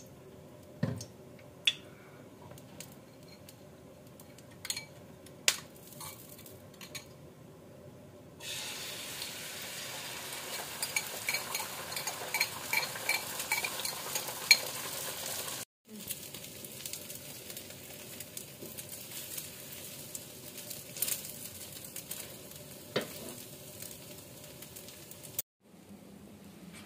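Egg omelette frying in hot oil in a non-stick pan: a sizzle that starts suddenly and loudly about eight seconds in, then carries on more quietly. Sharp clinks and taps of a metal spatula against the pan come through it.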